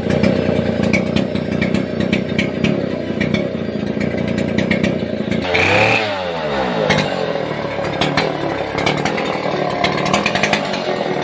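Small petrol engine running steadily with rapid clicking and knocking; about halfway through its pitch sweeps down and back up before settling again.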